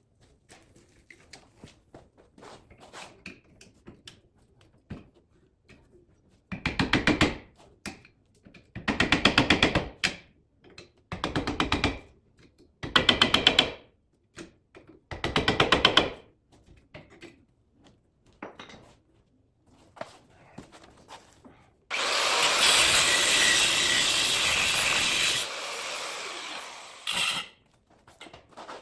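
Power tool work on a truck frame: five bursts of about a second each of a fast-hammering tool, then a few seconds of a steady whirring tool that drops in level and fades out, with lighter clatter between.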